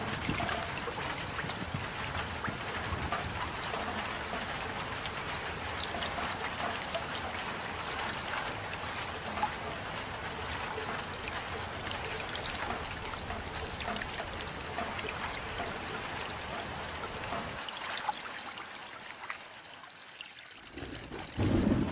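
Steady rain falling, with a dense patter of drops and water trickling. A low rumble underneath fades out about three-quarters of the way through, and a louder low rumble comes in just before the end.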